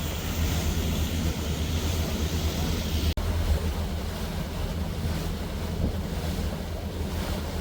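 Boat under way: a steady low engine drone with rushing water and wind buffeting the microphone. The sound breaks off for an instant about three seconds in, then carries on the same.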